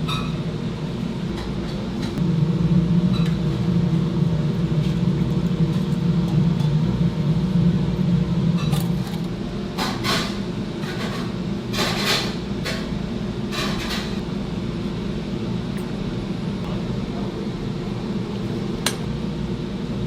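Restaurant kitchen noise: a steady mechanical hum, with a few sharp clinks and knocks in the middle.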